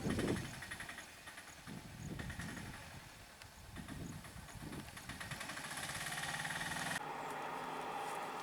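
A vehicle engine running, with uneven low rumbling, and an abrupt change in the background sound about seven seconds in.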